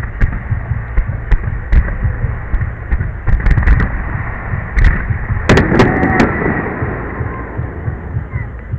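Fireworks going off: a string of sharp bangs and crackles, with a louder cluster of bursts and crackling about five and a half seconds in, over a constant low rumble.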